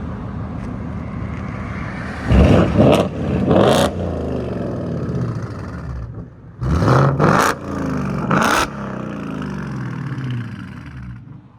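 2024 Ford Mustang GT's 5.0L Coyote V8, running through a Roush H-pipe and straight pipes with the mufflers deleted, idling and then revved in two bursts of quick throttle blips a few seconds apart. It drops back to a burbling idle between them, with a little rasp as the revs fall.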